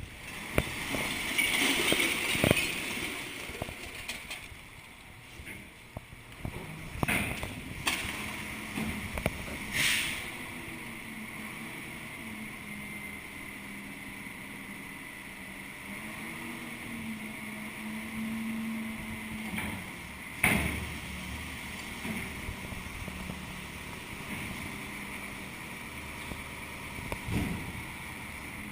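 1990 CCC refuse truck with EZ-PAK front loader, its engine running steadily under a high whine, briefly rising in pitch about two-thirds of the way through. Half a dozen sharp metallic clanks break in along the way.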